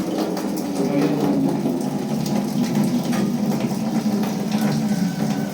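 A small motor-driven machine running steadily, with a fast, even rattle.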